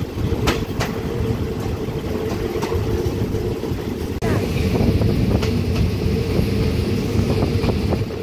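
Running noise of a diesel-hauled passenger train in motion, heard from an open coach door: a steady rumble of wheels on rails with occasional sharp clicks.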